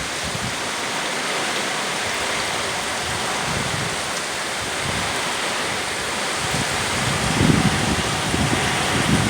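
Steady hiss of hurricane rain and wind, with low gusts buffeting the microphone about seven to nine seconds in.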